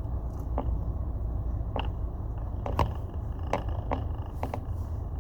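Car engine and cabin rumble, low and steady, heard from inside the car, with several short, sharp clicks scattered through it.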